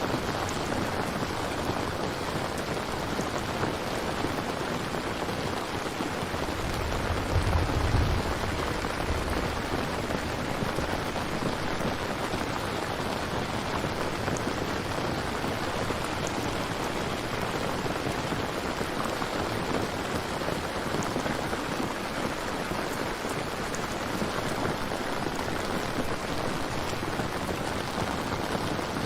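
Steady rain falling, with a short low rumble of thunder about seven seconds in.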